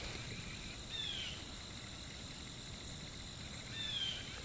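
Woodland ambience: a steady, high-pitched chorus of insects, likely crickets, with a bird giving two short down-slurred calls, one about a second in and one near the end.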